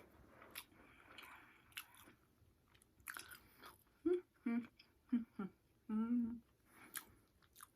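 A person chewing and crunching takeout food. In the second half come several short, louder pitched sounds, the longest about 6 seconds in.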